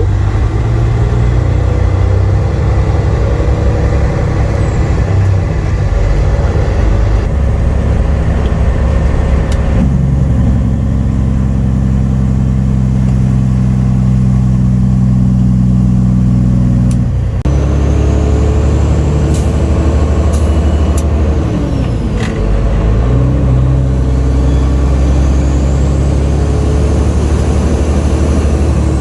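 Semi truck's diesel engine pulling a loaded grain trailer away and working up through the gears. The engine note changes in steps about ten seconds in and again a few times in the second half.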